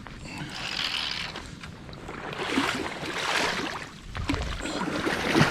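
River water splashing and sloshing in three surges as a hooked steelhead is brought to hand and landed in the shallows.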